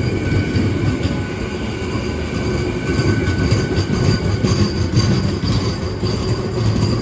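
Electric train passing close by: a steady, loud rumble of wheels on the track with a faint high-pitched whine running over it.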